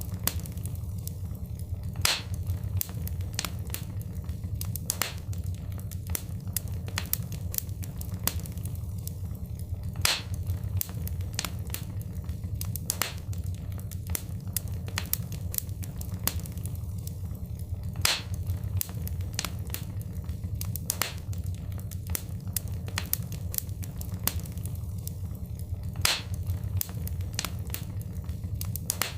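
Wood fire crackling, with a steady low rumble under many sharp pops and snaps. A louder pop comes about every eight seconds.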